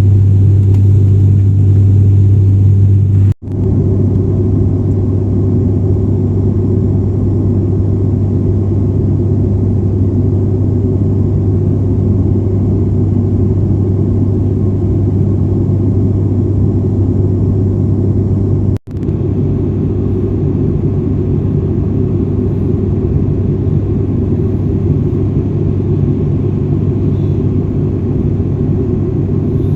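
Steady deep drone of an ATR twin-turboprop airliner's engines and propellers heard inside the cabin, with a strong low hum. The sound breaks off for a split second twice, about three seconds in and again near the middle.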